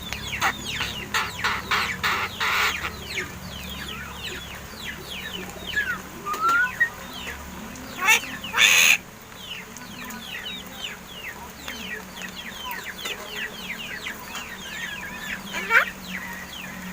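Many birds chirping in rapid short falling calls, with two loud harsh squawks about eight to nine seconds in.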